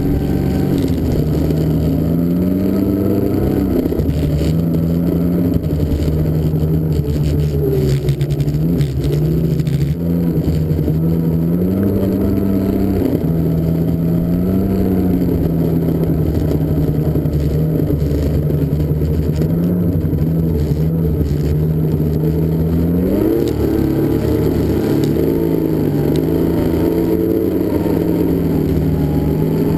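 Snowmobile engine running under way, its pitch rising and falling with the throttle, with a quick rise about 23 seconds in.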